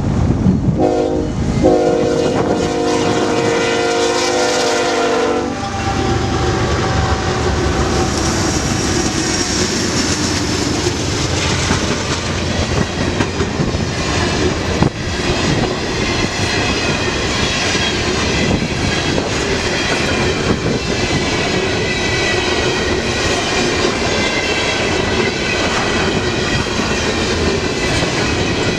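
A diesel freight locomotive's multi-chime air horn gives a few short blasts, then a long blast that stops about five and a half seconds in. After it, the freight train runs on with steady wheel and rail rumble, rhythmic clicking over rail joints, and a faint high wheel squeal.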